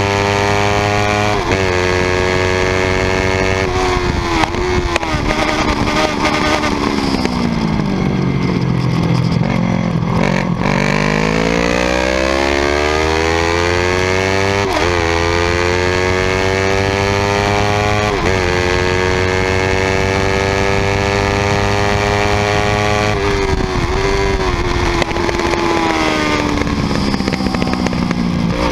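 Yamaha YZF R3's parallel-twin engine at full throttle on a racetrack, climbing in revs through the gears with quick drops at each upshift. Twice it winds down in pitch through braking and downshifts for a slow corner, around 6 to 10 seconds in and again near the end, then pulls hard back up the rev range.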